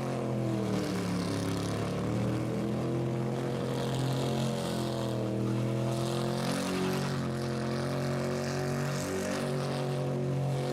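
Rat rod car engine held at high revs, as in a burnout, its pitch wavering up and down with a hiss above it.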